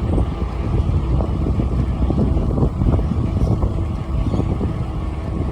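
Wind buffeting the microphone of a camera carried on a moving bicycle, a steady low rumble.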